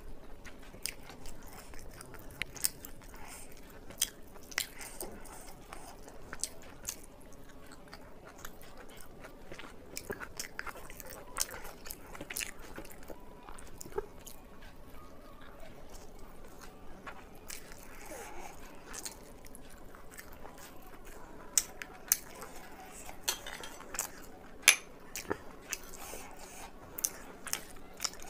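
A person chewing and biting food close to the microphone, mukbang-style, with many sharp wet mouth clicks and smacks throughout. The loudest smacks bunch together about three-quarters of the way in.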